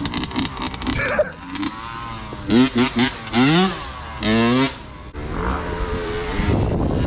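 Pit bike engine blipped hard in several short rising revs, then running on at a steady rougher note, with scattered clicks and knocks at the start.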